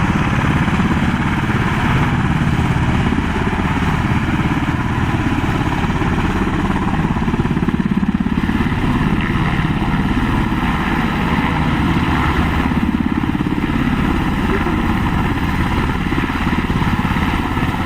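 Firefighting helicopter running steadily, with a rapid, even rotor chop over the engine noise.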